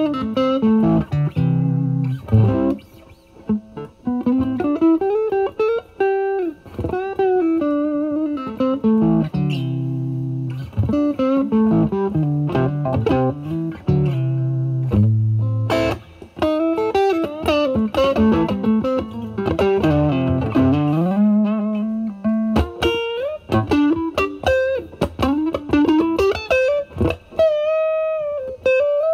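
Stratocaster electric guitar through a Vertex Steel String Clean Drive pedal at full gain into a Marshall Valvestate amp's drive channel. It plays overdriven single-note lead lines with string bends and vibrato, and ends on a held, vibrato-laden note.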